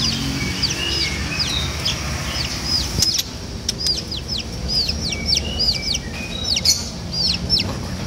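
Many caged birds chirping together: a steady stream of short, high, down-sweeping chirps, several a second, with a few lower calls mixed in.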